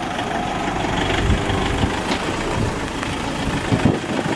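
Toyota Innova MPV's engine running under throttle as the vehicle drives up a muddy dirt track, keeping speed on the slippery ground.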